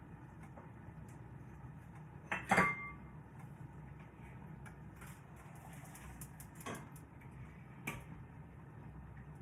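Metal cookware clanking: one sharp clank with a short ring about two and a half seconds in, then two lighter knocks near the end, over a steady low hum.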